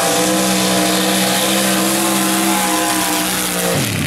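Chevy mud truck engine at full throttle through a mud bog run, holding a high, steady note that climbs slightly. The note drops away sharply near the end as the throttle is let off at the end of the run.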